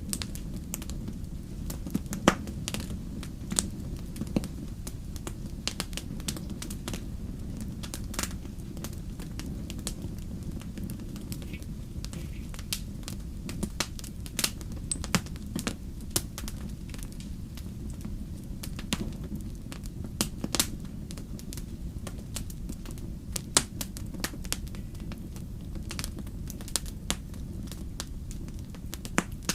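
Wood campfire crackling, with sharp irregular pops and snaps several times a second over a steady low rumble.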